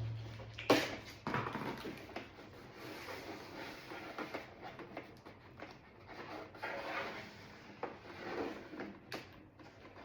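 Hands working tape onto a door panel: rubbing and rustling with scattered clicks and knocks, the loudest a sharp knock about a second in.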